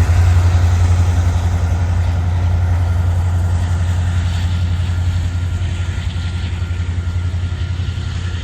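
Union Pacific mixed freight train rolling by, a steady low rumble that slowly fades.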